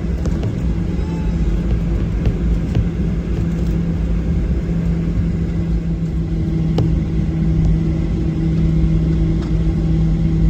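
Cabin noise inside a Boeing 737-800: its CFM56 jet engines running with a steady low rumble and hum, a second higher hum joining about six seconds in, and a few brief rattles.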